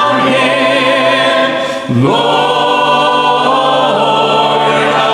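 Church congregation singing a hymn a cappella, holding long sustained notes, moving to a new note about two seconds in.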